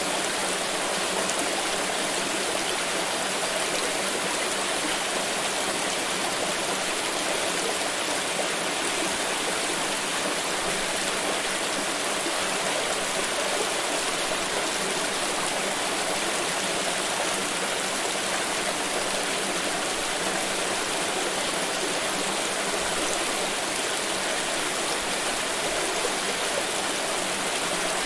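Water pouring and splashing steadily, an even rushing sound that does not change.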